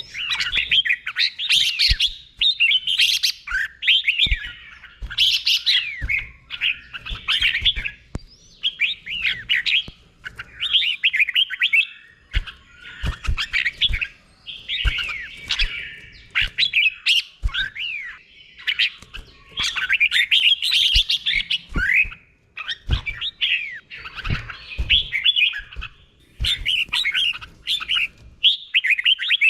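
Red-whiskered bulbul singing: short phrases of several quick, clear whistled notes, repeated every second or two with brief pauses between them. This is the doubled ('bernel', เบิ้ล) song style of the bird, delivered slowly and clearly.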